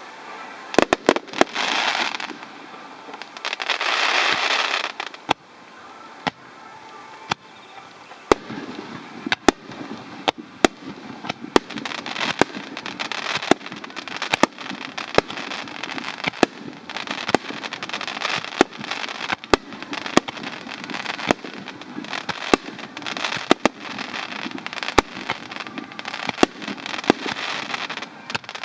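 Fireworks display: a fast run of aerial shell bursts, sharp bangs coming one after another over a continuous crackle, with two loud stretches of crackling in the first five seconds.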